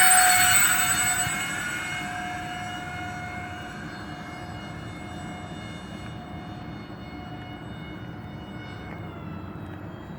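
Electric ducted-fan model airliner passing overhead: a high, multi-toned fan whine, loudest at the start, drops in pitch as the plane goes by and fades over the first few seconds to a steadier, quieter whine as it flies away.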